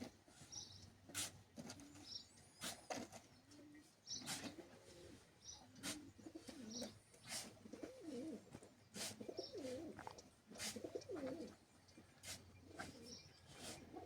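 Pigeons cooing in soft, rolling low calls, most steadily in the second half, with short high chirps of small birds and scattered sharp clicks or taps throughout.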